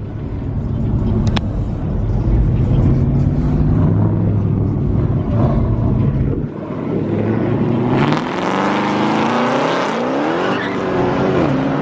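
Dodge Charger and Challenger muscle-car exhausts rumbling deep and low. Then, from about eight seconds in, engines rev with repeated rising pitch as the cars accelerate away.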